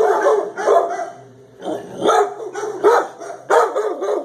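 Several dogs barking in a kennel room, loud repeated barks with a short lull about a second in.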